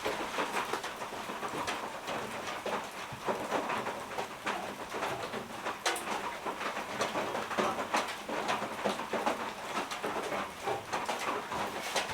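Steady rain pattering, with many small drop ticks scattered through it.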